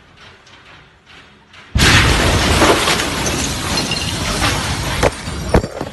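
Blast of the Beirut port explosion arriving: the quiet suddenly gives way, a little under two seconds in, to a very loud boom. A long roar of shattering glass and falling debris follows, with a few sharp cracks near the end.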